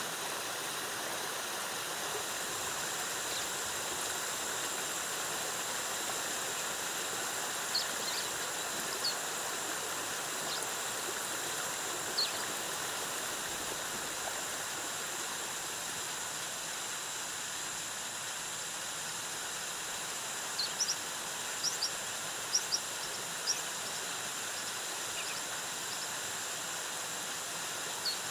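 Jungle waterfall cascading in a steady rush of water, under a thin, constant high-pitched drone. Short high chirps come through a few times, with a quick cluster of them about two-thirds of the way in.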